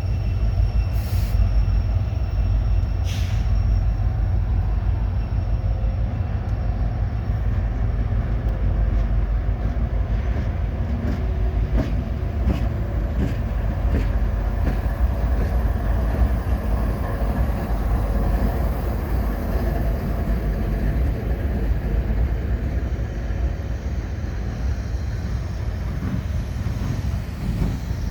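Manifest freight train rolling past with a steady low rumble, and sharp clicks of wheels over rail joints for a few seconds midway.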